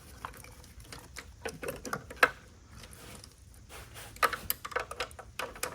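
Irregular clicks and light metallic knocks of hand tools working at the 10 mm bolts that hold the intake manifold on.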